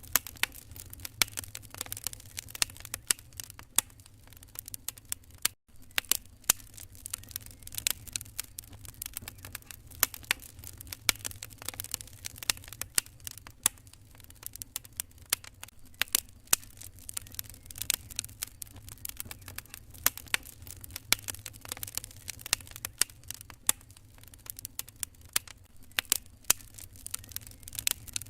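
Wood fire crackling: irregular sharp pops and snaps, some loud, over a steady low rumble. The sound drops out for an instant about five and a half seconds in.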